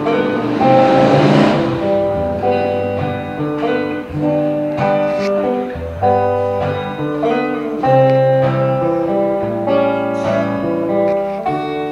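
Acoustic guitar playing an instrumental passage of a song, chords changing every second or so, with a brief wash of hiss in the first two seconds.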